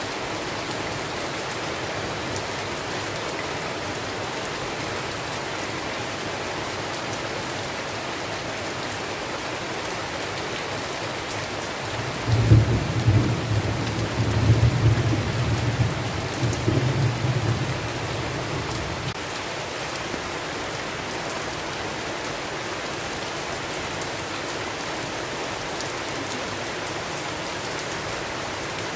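Steady rain falling, with a rolling rumble of thunder about twelve seconds in that swells several times over some six seconds before fading back into the rain.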